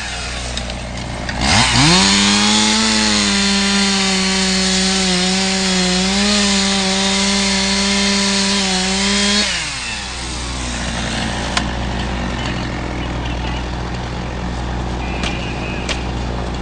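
Power saw revved up about one and a half seconds in and held at high speed for about eight seconds while cutting through the roof along the ridge, its pitch dipping a little under load. The engine drops back near ten seconds, leaving a lower steady noise with a few sharp clicks.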